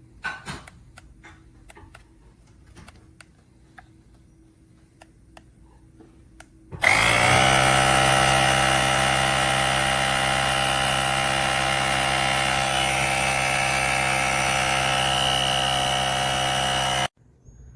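Cordless portable tire inflator's compressor motor starting about seven seconds in, spinning up quickly and running steadily for about ten seconds, then cutting off suddenly. Before it, a few faint clicks.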